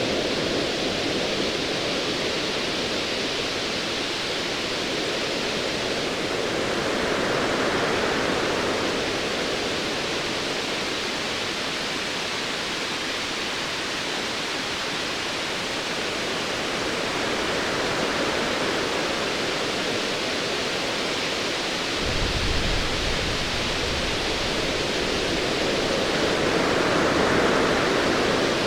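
Ocean waves washing in a steady hiss that swells and eases slowly. About 22 seconds in, a low distant thunder rumble comes in under the surf and keeps going.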